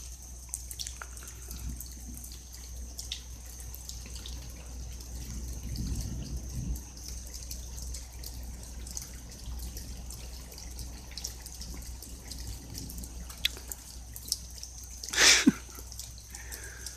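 Rain dripping: scattered drips over a low steady hum, with a brief louder noise near the end.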